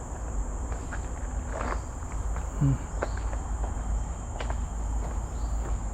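Footsteps crunching irregularly along a leaf-littered forest trail, over a steady high-pitched drone of insects.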